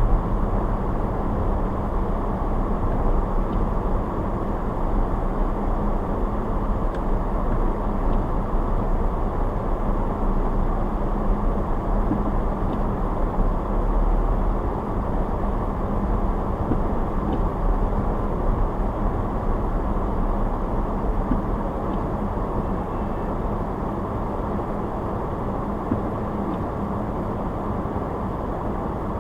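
A car driving, with steady road noise from the tyres and engine. A low rumble eases a little about halfway through.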